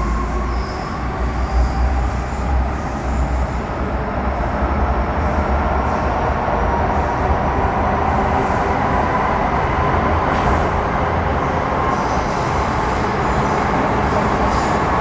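Running noise inside an MTR Metro Cammell M-Train electric multiple unit with GEC GTO chopper traction control: a steady low rumble of wheels and track with a faint whine that climbs slowly in pitch as the train gathers speed. The whine comes from the GTO chopper and traction motors.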